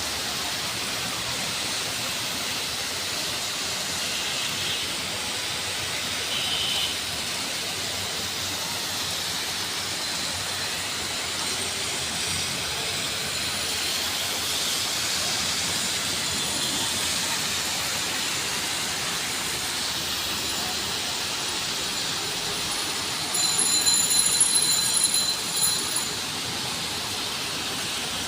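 Steady rain falling, an even hiss. It gets louder and more uneven for a few seconds near the end, with a high ringing tone.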